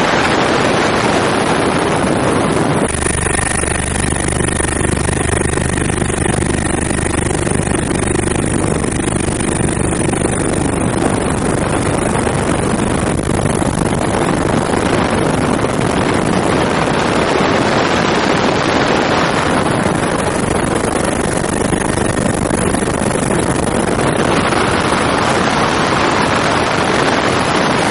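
Helicopter engine and rotor noise heard from aboard, a loud steady rushing with a faint high whine and a low hum, mixed with wind on the microphone. The sound shifts in character about 3 seconds in and again near the end.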